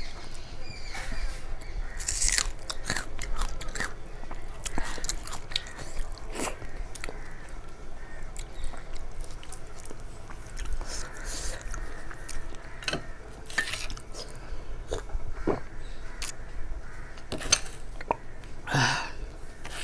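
Close-up wet chewing and mouth sounds of a person eating khichdi by hand, with many short, scattered crackles and crunchy bites.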